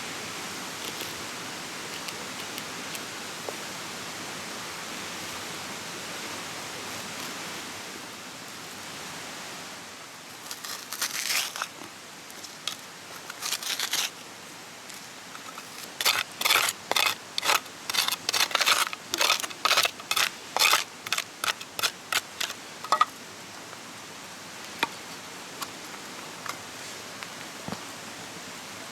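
Steady rush of flowing stream water. Over it, about ten seconds in, a few short scraping strokes, then a run of quick, regular scraping strokes, about two a second, for roughly seven seconds: wood being cut by hand for a campfire.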